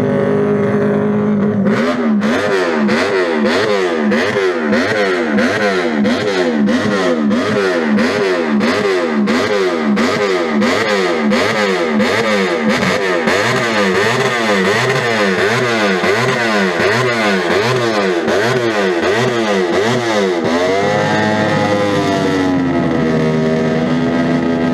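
A classic motorcycle engine being revved hard on the throttle, its pitch swinging up and down about once a second in a long run of repeated blips. Near the end the revs fall and it settles into a steady idle.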